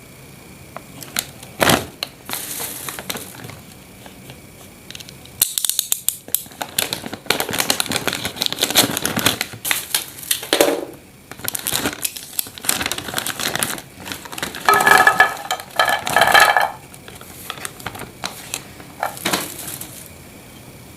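Snack packaging crinkling and crackling in irregular bursts, with sharp clicks, as a tin of Nissin Walens dry chocolate-filled choux puffs is handled and unpacked.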